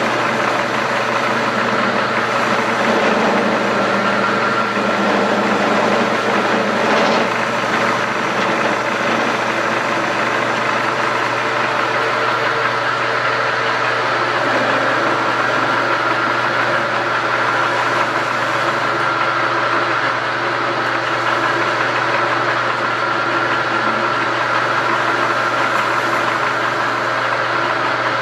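Metal lathe running steadily, a 4-jaw chuck spinning a piece of metal bar stock while its end is faced off, a hum under a steady rush of machining noise.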